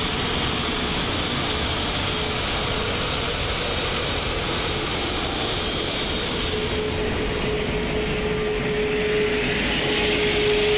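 Airbus A380 taxiing with its jet engines at idle: a steady rush with a steady hum under it, growing a little louder near the end.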